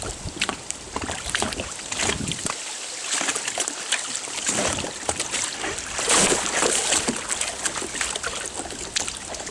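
Water splashing and sloshing against a kayak as it is rocked from side to side, with a louder burst of splashing about six seconds in.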